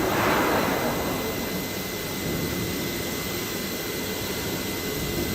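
Steady whirring machine noise from a CNC vertical machining centre running, with a faint steady high whine. It is louder right at the start and eases off within the first half-second.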